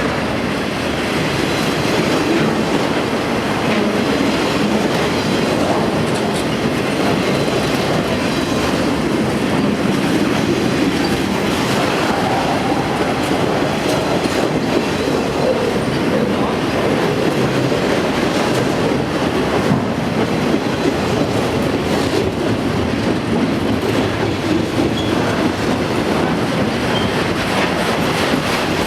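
A train's cars rolling steadily past, a continuous noise of steel wheels on rail with faint clicks from the rail joints.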